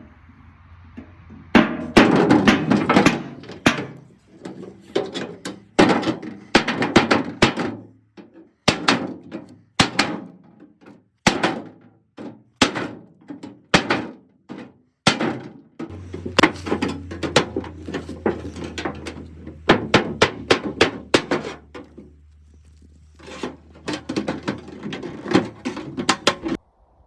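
Hammering: bursts of rapid knocks and thunks, separated by short pauses.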